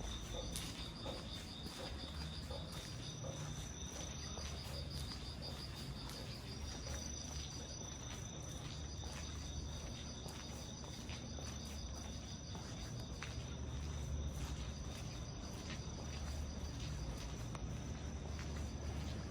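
Several crickets chirping at once in fast, pulsing trills, a second high trill joining about six seconds in, over a steady patter of rain.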